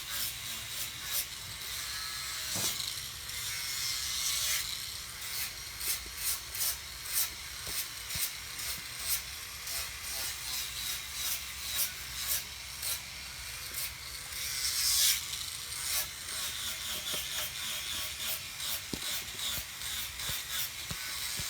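Hand tool working wood: repeated rasping strokes on timber, a few a second, with short pauses between runs of strokes.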